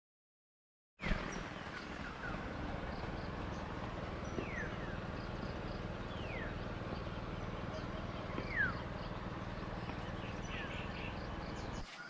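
Night-time countryside ambience: a steady hiss with a low hum, and every second or two a short, downward-sliding chirp from a calling animal. It starts about a second in, after silence.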